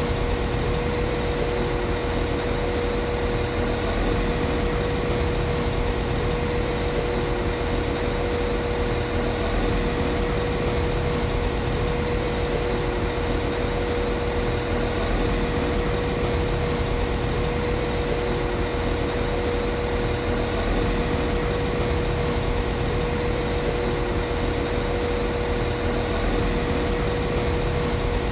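Class 195 CAF Civity diesel multiple unit's underfloor diesel engine idling steadily: an unchanging mid-pitched hum over a low rumble.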